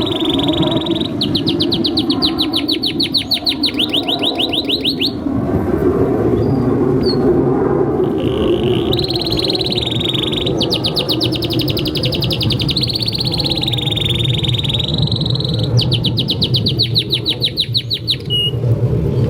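Male domestic canary singing a long, fast song of rapid trills and rolls in several phrases, with a pause of a few seconds near the middle, over a steady low background rumble.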